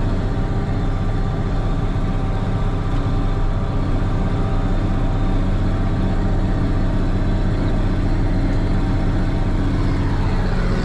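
Case 2670 four-wheel-drive tractor's diesel engine running at a steady, even pitch while pulling a disc chisel through the soil.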